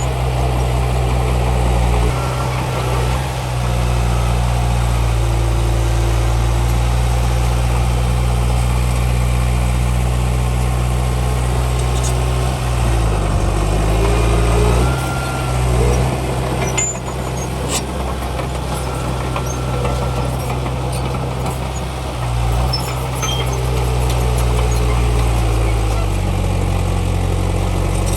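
Heavy diesel engine of earthmoving machinery running steadily under a low, even drone. Its pitch dips and rises a few times, most around the middle, as the engine load changes.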